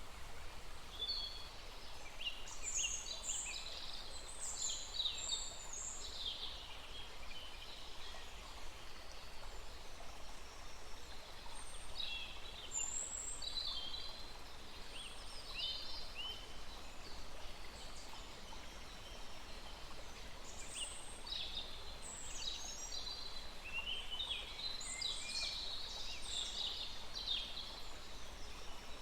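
Small songbirds singing in spells of rapid high chirps and trills, three times over, above the steady rushing of a small forest stream.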